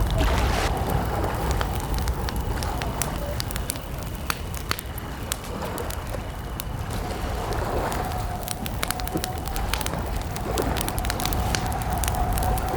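Campfire of burning wood crackling, with frequent sharp irregular pops over a low steady rumble.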